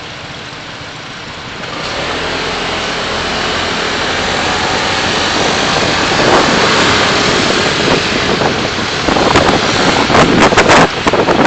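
Car on the move, steady road and engine noise picked up by a dashcam, growing louder about two seconds in. Near the end a run of loud crackling bursts cuts across it.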